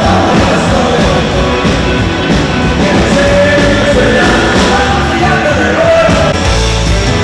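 Rock and roll song with a lead vocal over a full band, played loud.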